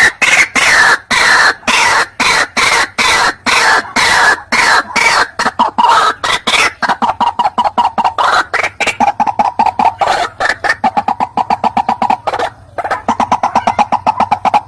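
White-breasted waterhen call used as a lure: a fast, loud run of harsh repeated notes, several a second. The notes slide lower in pitch at first, then settle into a steady series, with a brief break near the end.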